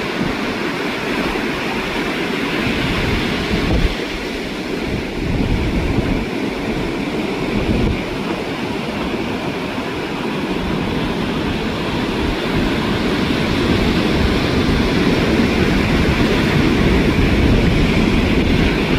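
Ocean surf washing onto the beach as a steady rush of noise, with wind buffeting the microphone in low, uneven gusts. The surf swells louder over the last few seconds.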